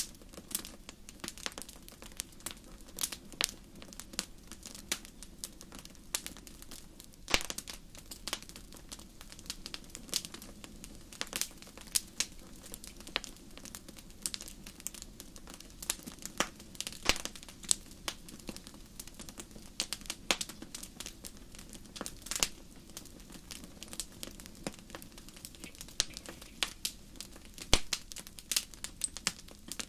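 Fireplace fire crackling: irregular sharp pops and snaps, several a second with now and then a louder one, over a soft steady low rumble.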